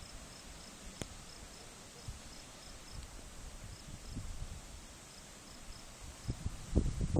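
Crickets chirping steadily, about four or five chirps a second, over a low rumble on the microphone that swells into heavy low buffeting near the end.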